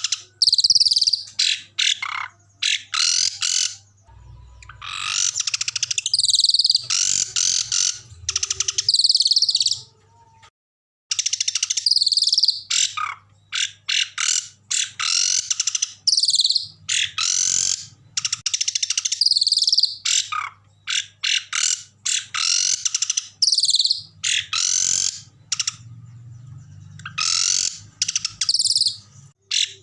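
Small songbirds giving bursts of rapid, harsh, high-pitched chirps and trills, one after another, with a brief break of silence about ten seconds in.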